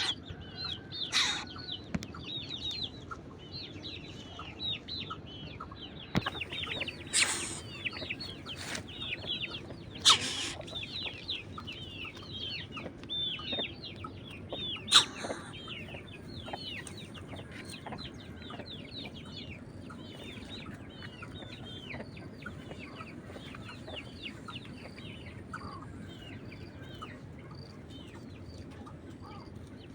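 Many small birds or chicks peeping at once: a steady chorus of short, high, falling calls overlapping throughout. A few sharp knocks or rustles stand out in the first half.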